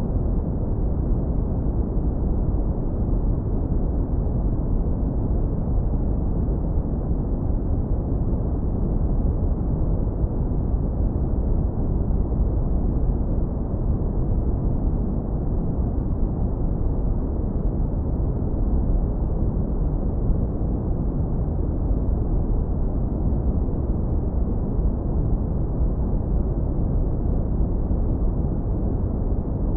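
Synthetic brown noise, low-pass filtered to a deep, warm rumble, running steady and unchanging with nothing above the low end.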